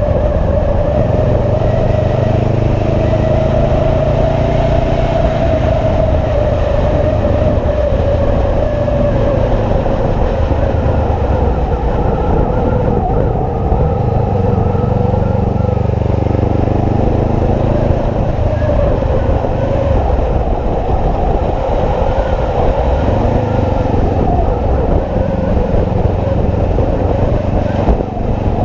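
Motorcycle riding at a steady cruise, its engine note drifting slightly up and down over a continuous low rumble of road and wind noise.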